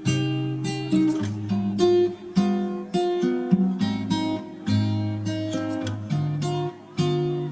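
Background music: an acoustic guitar played with plucked and strummed notes.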